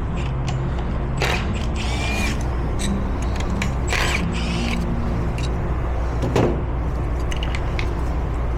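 Hand tools and metal parts clinking and scraping on a bare 7.3-litre gas V8 as caps are taken off the valvetrain, with a few sharp metallic clicks and a short squeak over a steady low shop hum.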